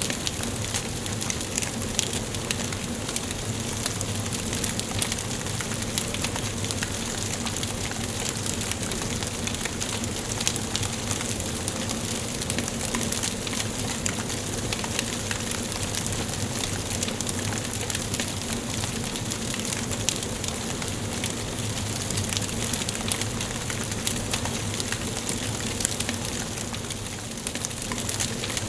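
Wood fire crackling in a fireplace: a steady hiss dense with small, sharp pops.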